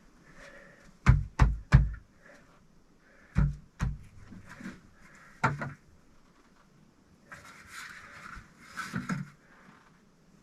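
Sharp knocks of bricks being handled and set in place on a brick stove: three quick knocks, then two, then one. A stretch of scraping and rustling follows.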